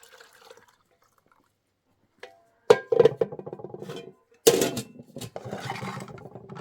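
Kitchenware clattering: two sharp knocks about three and four and a half seconds in, each followed by rattling, ringing clinks, after a quiet start.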